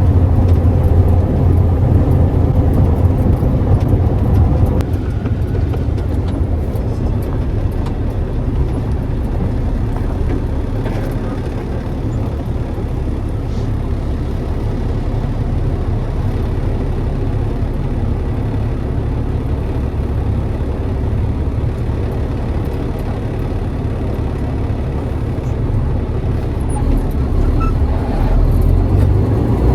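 Semi-truck engine drone and road noise heard inside the cab while driving, a steady low rumble that eases slightly a few seconds in. Right at the end the engine note starts to rise.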